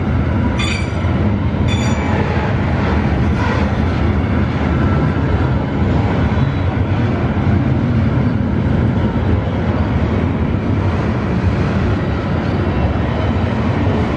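Freight train's loaded steel-coil flatcars rolling past with a steady heavy rumble of wheels on rail, with two short high-pitched wheel squeals about a second in.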